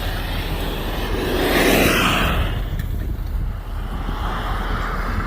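Pickup truck engine droning steadily under load while driving through deep snow drifts, heard from inside the cab. A rushing noise swells and fades around the middle.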